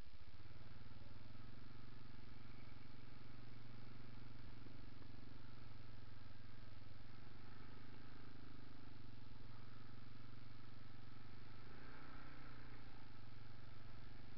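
Honda ATV engine running at a steady speed, an even low hum.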